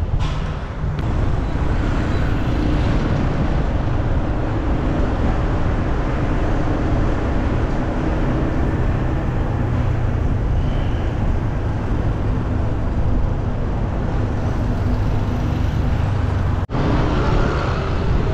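Steady road-traffic noise: vehicle engines running and passing without a break, with a brief sharp dropout about a second and a half before the end.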